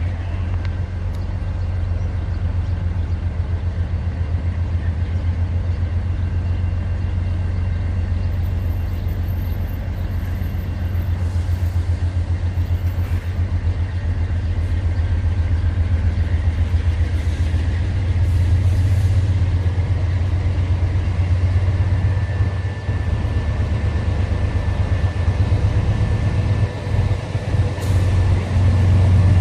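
Diesel-electric freight locomotives running, a steady deep engine throb that grows a little louder about halfway through.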